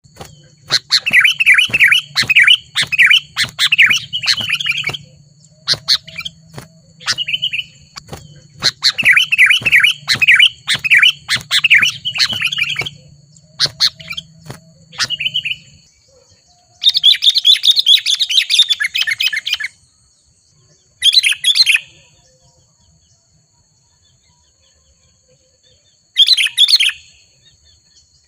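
Sooty-headed bulbul (kutilang) singing: repeated bursts of quick, bubbly chattering phrases, close together in the first half and then three shorter, separate bursts in the second half.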